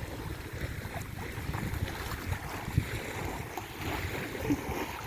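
Sea surf washing on the shore, with wind rumbling on the microphone.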